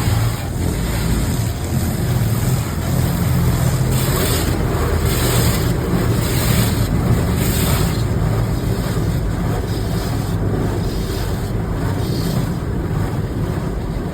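Steady rushing of water spray over a low rumble, with short bursts of hiss about once a second between four and eight seconds in.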